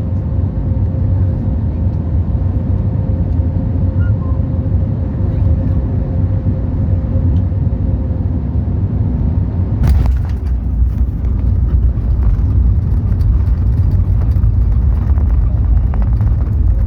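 Inside an Airbus A320-family airliner's cabin: a steady low rumble of engines and airflow on final approach. About ten seconds in, the wheels hit the runway hard with a sudden jolt, and a louder rolling roar follows, with the cabin rattling.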